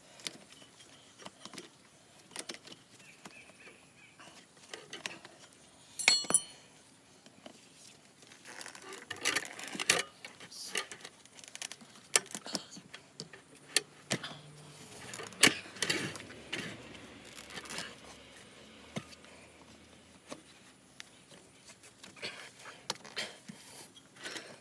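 Metal tools clinking, knocking and scraping against a motorcycle wheel rim as tyre levers work the tyre bead, with one ringing metal clink about six seconds in.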